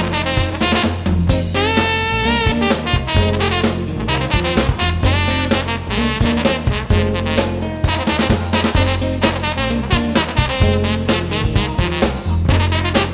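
A band playing: horns with a long, wavering held line over a drum kit keeping a steady beat and a bass line.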